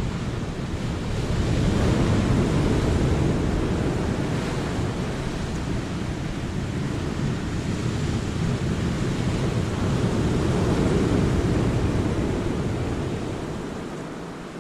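Sea waves breaking and washing over a rocky cove shore, swelling twice, about two seconds in and again near eleven seconds, then easing off near the end. Wind buffets the microphone throughout.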